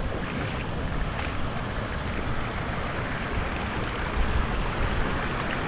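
Steady rushing of water from a waterfall and stream, an even noise with no breaks.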